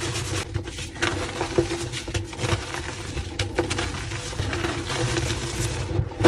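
Soft reformed gym chalk being crushed and crumbled, a dense run of small crackles and crunches.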